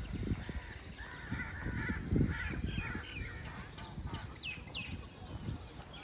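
Birds chirping and calling, with a few quick falling chirps about four and a half seconds in, over intermittent low thuds.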